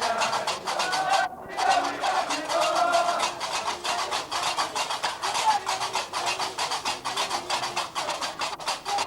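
Gnawa music: metal qraqeb castanets clattering in a fast, even rhythm under voices singing.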